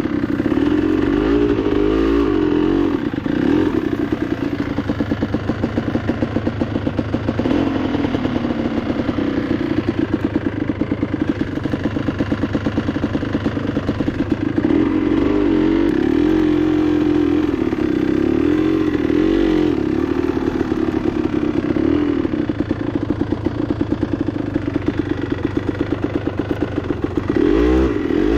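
Enduro motorcycle engine running while riding, the revs rising and falling repeatedly with the throttle.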